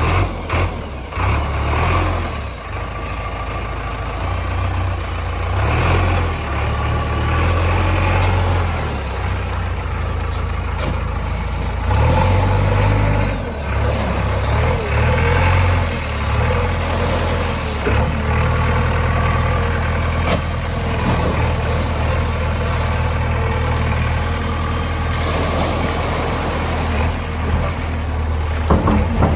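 Heavy diesel vehicle engine running at around idle, its level rising and falling a few times.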